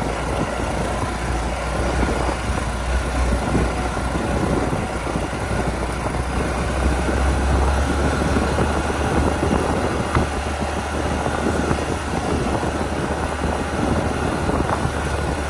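Motorcycle riding at steady speed, its engine running under a steady low rumble and hiss.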